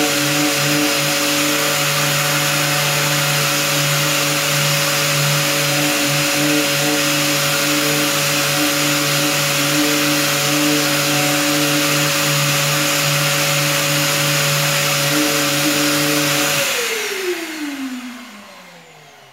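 Power sander running steadily as it sands plastic body trim with 150-grit paper. Near the end it is switched off and its motor winds down with a falling whine.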